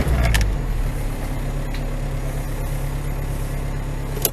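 Vehicle engine and road noise as picked up by a dash camera: a steady low rumble, with a sharp click just before the end.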